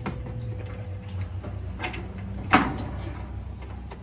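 Work-handling noise on a dryer under repair: a few light clicks and taps, with one sharper knock about two and a half seconds in, over a steady low hum.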